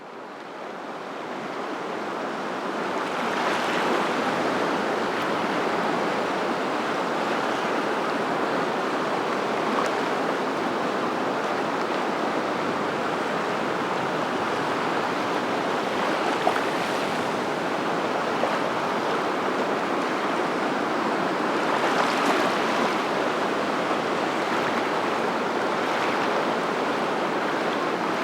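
Steady rushing water that fades in over the first few seconds, with a few gentle swells.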